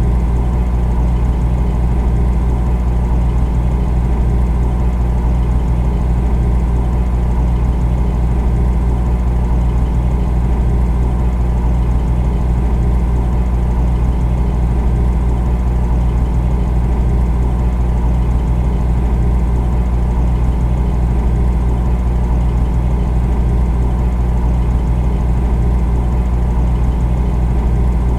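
Refrigerator running with a steady, deep, even hum that does not change.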